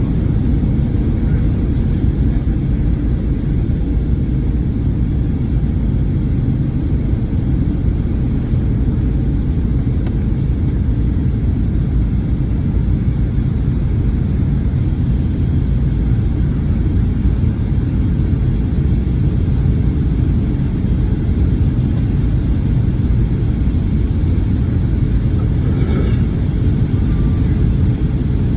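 Steady low rumble of cabin noise inside a Boeing 737-900ER: engine and airflow noise heard from a forward window seat, unbroken, with a faint brief tick about 26 seconds in.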